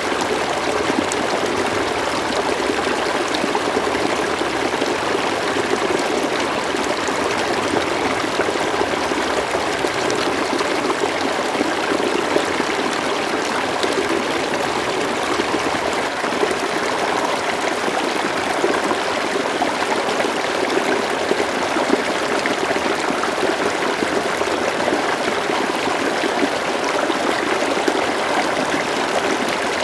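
River water flowing over stones, a steady babbling and trickling rush with no breaks.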